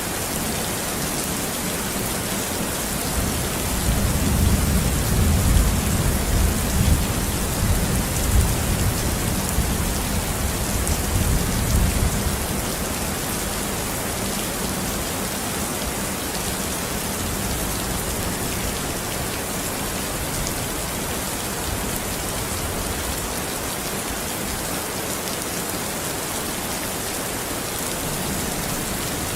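Steady rain falling, with a long, low rumble of thunder that swells about three seconds in and fades out around twelve seconds.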